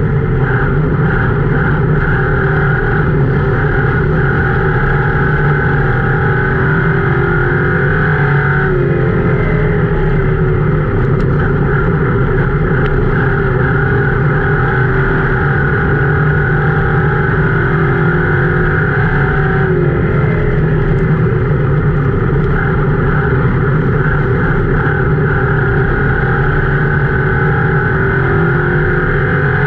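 Ford Crown Victoria race car's V8 running hard, heard from inside the car, its note dipping and climbing back three times about eleven seconds apart as the car slows and accelerates around the oval.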